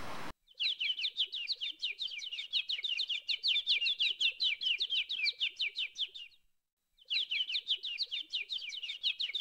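Bird chirping in rapid, evenly repeated high chirps, many a second, in two long runs with a short silent break about six and a half seconds in.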